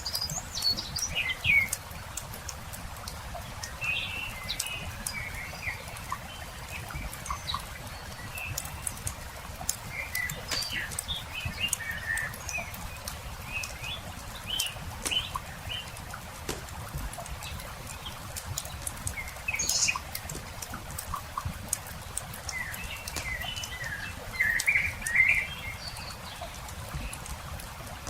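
Campfire crackling with frequent small pops, under small songbirds chirping on and off, with a busier run of chirps near the end.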